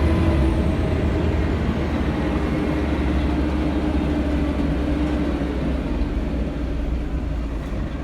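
Scania L113CRL city bus running under way, heard from inside: a steady deep rumble of engine and drivetrain with road noise and a faint humming tone in the first few seconds.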